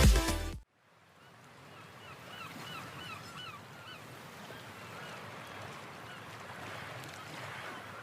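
Dance music cuts off abruptly, and after a brief silence a bird gives a quick run of short calls, each falling in pitch, over faint outdoor background noise.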